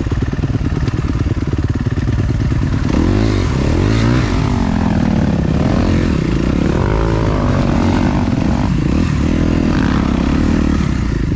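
Dirt bike engine under way on loose sand. It runs steadily at first, then from about three seconds in revs up and down again and again as the throttle is worked.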